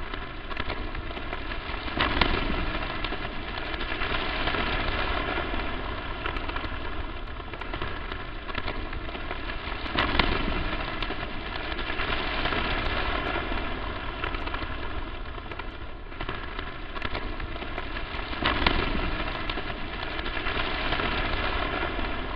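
Crackling static noise: a dense hiss full of pops and clicks, with a faint buzz running under it. It swells into a sharper crackle about two seconds in, again around ten seconds in, and near the end.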